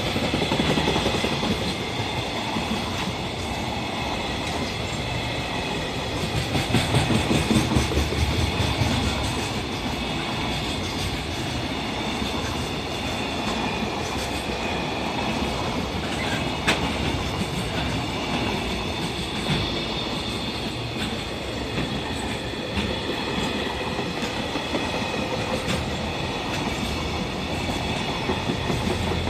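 Koki 107 container flatcars of a freight train running through a station at speed: a long, steady rumble of wheels on rail, louder for a few seconds about seven seconds in, with one sharp click near the middle.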